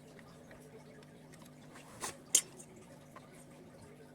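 Two sharp clicks about a third of a second apart, roughly halfway through, over a faint steady low hum.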